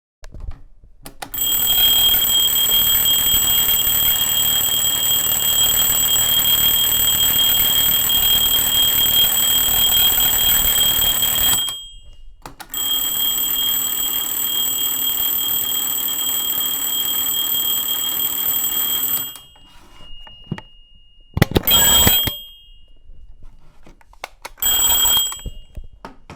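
Alarm clock ringing: one long ring of about ten seconds, a brief pause, a second ring of about seven seconds, then two short rings near the end.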